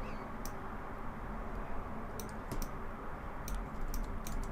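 Scattered clicks of a computer keyboard and mouse used for hotkeys and modelling, about ten in all and some in quick pairs, over a steady low hum.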